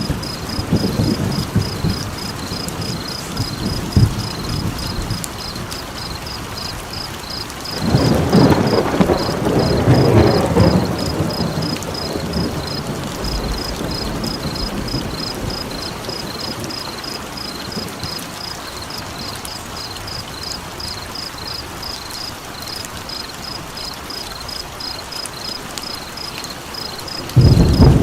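Layered nature ambience: a steady rain-like hiss with scattered crackles of a campfire, under a high chirping call that pulses evenly about four times a second. Low rumbling swells rise about eight seconds in and again near the end, like distant thunder.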